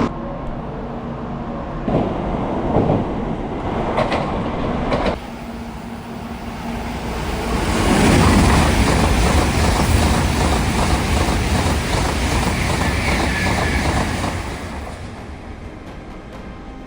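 Shinkansen N700 bullet train running on the line, with a few knocks in the first seconds. About five seconds in the sound drops off suddenly, then a loud rush of train noise builds up and fades away over the following several seconds.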